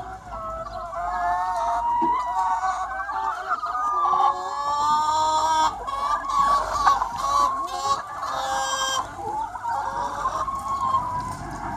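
A large free-range chicken flock clucking and calling, many hens' voices overlapping without a break, louder and brighter in the middle.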